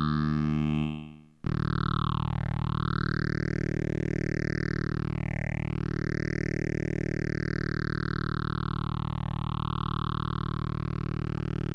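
Sustained buzzy synthesizer tone run through two phasers in series on a Behringer BiPhase clone, each phaser swept by its own sweep generator, so two slow whooshing sweeps rise and fall at different rates. The tone fades out about a second in and comes back abruptly half a second later.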